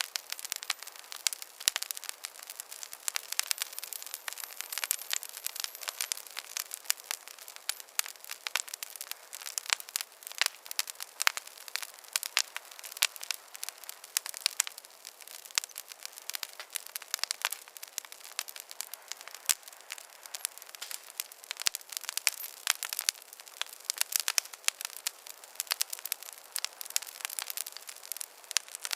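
Wood campfire crackling: a dense, irregular stream of sharp pops and snaps over a faint hiss, with no low rumble.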